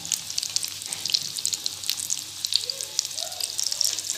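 Potato cutlets frying in hot oil over medium heat: a steady sizzle with many small crackling pops.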